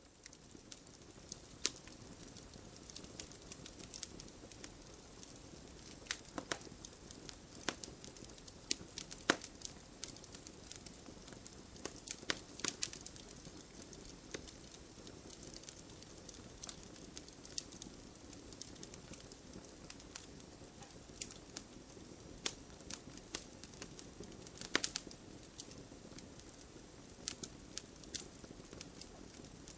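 Wood fire crackling: a soft steady hiss of burning with sharp, irregular pops and snaps, a few louder ones standing out.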